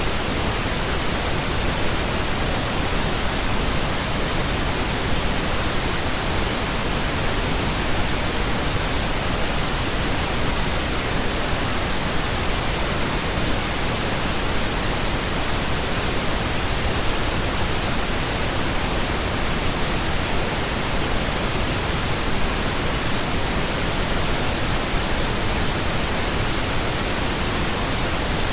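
Pink noise: a steady, even hiss spread across the whole range from low rumble to high treble, unchanging throughout.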